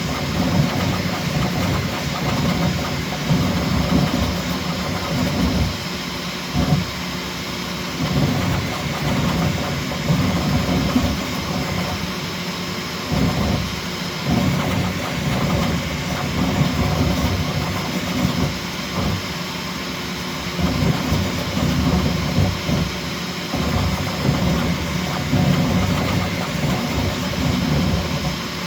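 Bambu Lab X1C 3D printer printing at very high speed: its motors whir in quick, shifting surges as the toolhead darts about, over the steady rush of its cooling fans and a faint high whine.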